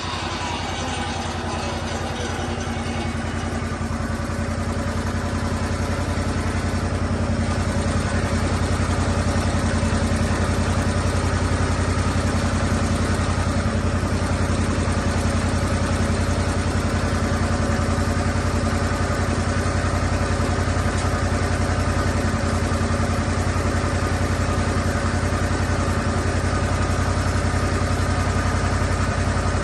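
Lucas Mill 10-30 swing blade sawmill's engine running steadily. Its pitch slides down in the first second or two, and it grows a little louder over the first several seconds before holding level.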